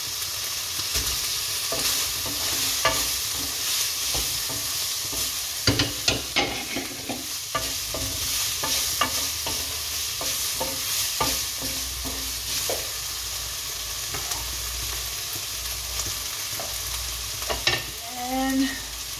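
Onion frying in hot oil in a pan, a steady sizzle, stirred with a wooden spatula that scrapes and knocks against the pan again and again, with a few louder knocks near the end.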